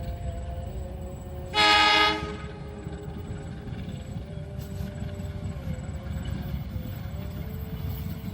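A train's horn sounds once, a short blast of about half a second, about a second and a half in, over a steady low rumble.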